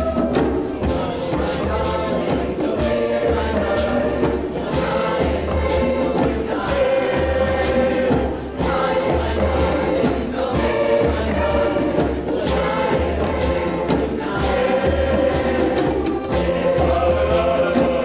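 Community choir singing a sustained, harmonised song, with a steady low beat underneath.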